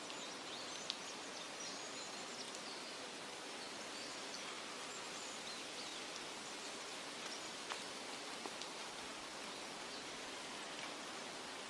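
Steady forest nature ambience: an even rustling hiss of wind, rain or water, with faint short high chirps scattered through it and two brief ticks, about a second in and near eight seconds.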